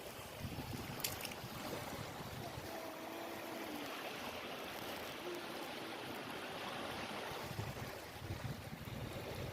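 Steady wash of sea waves, with a sharp click about a second in.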